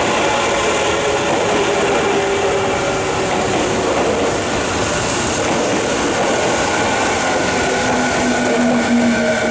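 Y500 series electric commuter train running alongside the platform: a loud steady rumble of wheels on rail, with the whine of its traction motors drifting slowly in pitch.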